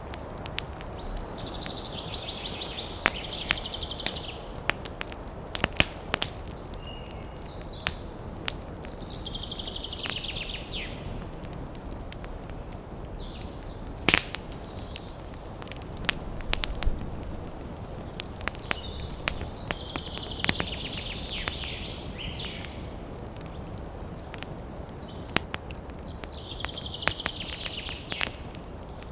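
Campfire crackling, with irregular sharp pops and one louder pop about halfway through, over a steady low rush. Four times, a high, rapid trill of one to two seconds sounds over the fire.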